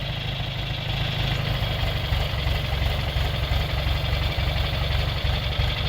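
John Deere 2355 tractor's three-cylinder diesel engine running steadily at idle, with a low, even engine note.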